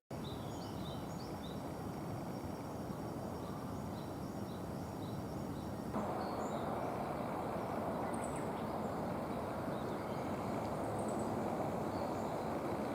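Outdoor ambience: a steady rushing noise with small bird chirps scattered through it. The noise steps up slightly about six seconds in.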